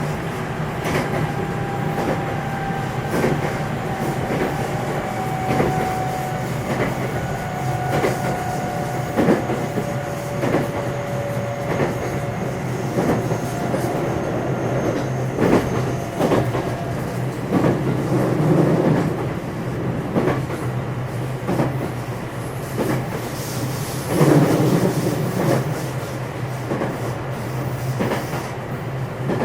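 Running noise inside a JR West 227 series electric multiple unit motor car with Hitachi IGBT VVVF traction equipment, under way between stations: a steady low rumble with repeated clicks of the wheels passing over rail joints.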